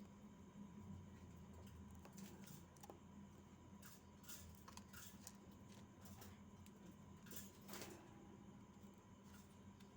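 Near silence: a faint steady hum with a few soft clicks and rustles, most of them between about two and eight seconds in.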